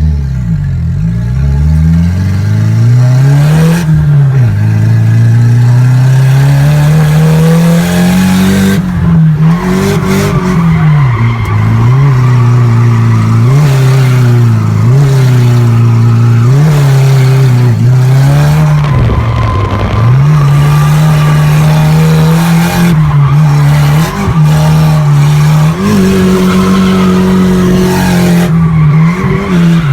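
Drift car's engine revving hard, its pitch rising and falling over and over every second or two as the driver works the throttle through a drift run, with tyres squealing and sliding on the track.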